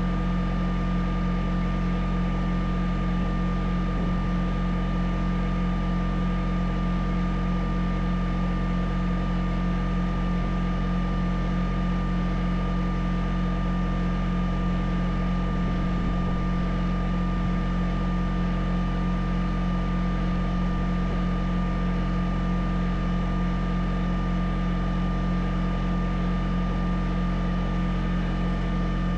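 An engine running steadily at a constant speed, with a steady whine above its low drone.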